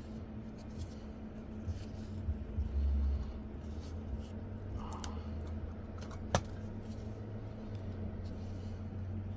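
Small clicks and scrapes of hand tools and parts being handled over a steady low hum, with one sharp click about six seconds in.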